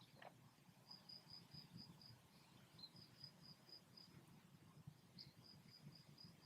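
Near silence with faint cricket chirping: short, high chirps about four a second, in runs broken by brief gaps.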